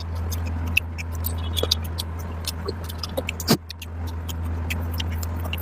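Close-miked eating sounds: wet chewing and lip-smacking clicks of a mouthful of curry and rice, with one louder smack about three and a half seconds in. A steady low hum runs underneath.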